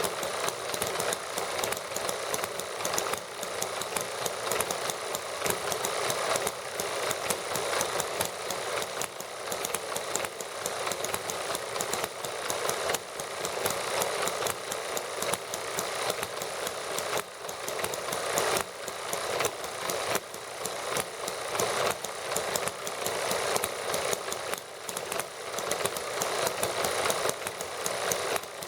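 Small model gasoline engines running steadily together, a fast, continuous mechanical clatter.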